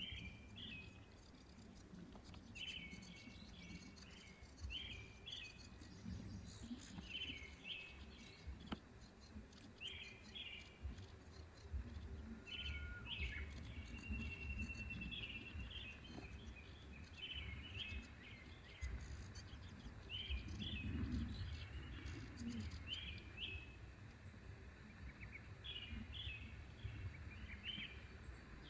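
A small bird singing outdoors, repeating short phrases of quick high chirps every second or two, over a low steady rumble.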